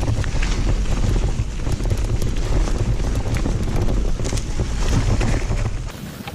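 Wind buffeting an action camera's microphone as a mountain bike rides a trail, with frequent rattles and clicks from the bike and tyres over rough ground. The low rumble drops away about six seconds in.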